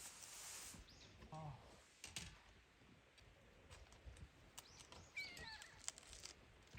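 Faint, short animal calls against a near-silent background: a brief low call about a second and a half in, a higher curving call about five seconds in, and a few light clicks in between.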